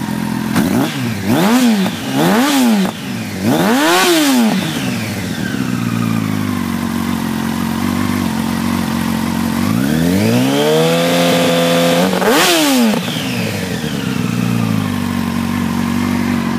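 Yamaha R1's inline-four engine, still cold and warming up, blipped three times in quick succession and then idling steadily. About ten seconds in it is brought up and held at higher revs for a couple of seconds, revved once more and dropped back to idle.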